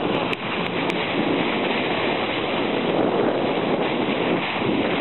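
Steady rush of wind and water on a moving boat, with wind buffeting the microphone.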